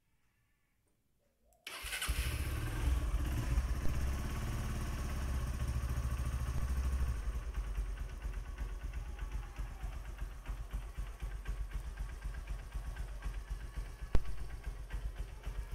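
Honda New Megapro's single-cylinder four-stroke motorcycle engine starting up about two seconds in, running at a raised idle for several seconds, then settling to a lower, steady pulsing idle. A single sharp click near the end.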